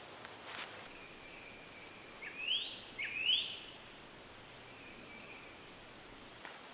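A bird calling in a spring forest: two rising, slurred whistles in quick succession, with faint high, thin chirps alongside. A single short click sounds about half a second in.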